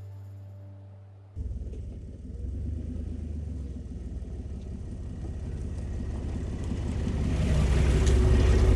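A truck driving, its engine and road noise making a steady low rumble that grows louder over the last few seconds. Fading music precedes it, cut off about a second and a half in.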